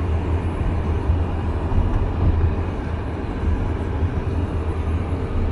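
Steady low rumble of a moving vehicle, engine and road noise, unchanging throughout.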